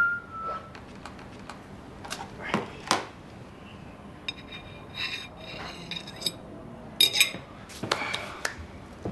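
Dishes and cutlery clinking and clattering in a few separate bursts of ringing strokes, with a whistled tune ending just at the start.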